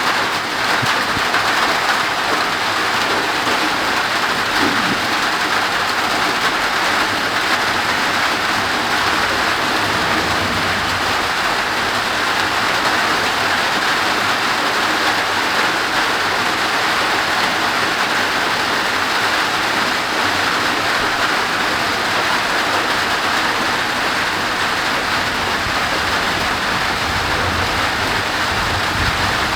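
Heavy, steady tropical downpour hissing down, with low, muffled rumbles of distant thunder underneath a third of the way in and again near the end.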